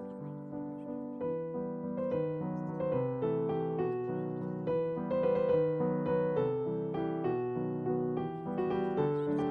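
Background piano music: a melody of notes about two a second over held chords.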